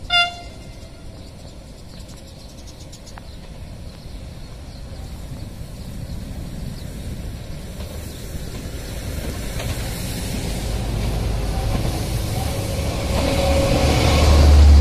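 A diesel locomotive hauling a passenger train approaches and passes close by, its engine and wheel rumble growing steadily louder and deepest near the end. There is a brief horn toot right at the start.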